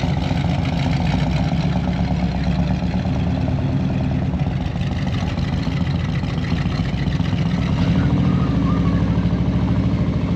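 A vehicle engine running at idle with a steady low throb and a slight rise in pitch about eight seconds in.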